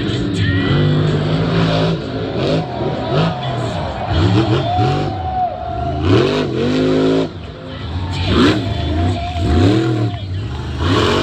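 Monster Energy monster truck's supercharged V8 engine revving hard again and again, its pitch rising and falling in quick swells.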